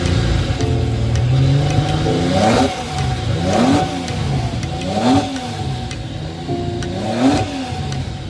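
A car engine running, then revved in a series of short throttle blips from about two seconds in, each rev rising and falling in pitch, four in all.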